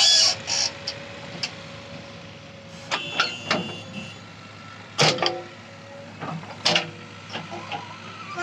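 JCB backhoe loader's diesel engine running steadily, with several sharp metallic knocks.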